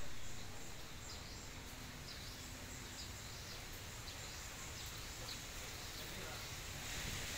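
Steady outdoor background noise with scattered faint, high chirps of birds, several in the space of a few seconds.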